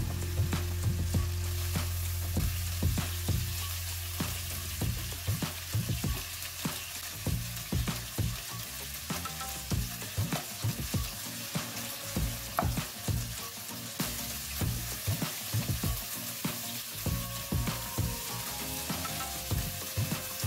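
Chicken sizzling in hot oil in a non-stick wok while a wooden spatula scrapes and knocks against the pan over and over as it is stirred. Sliced onion and chilies go in about halfway through, and the sizzle is louder in the later part. A low steady hum sits under the first several seconds.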